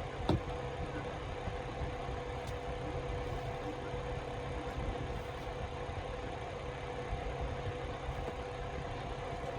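Steady low machine hum with a thin steady tone over it, and one short knock-like sound about a third of a second in.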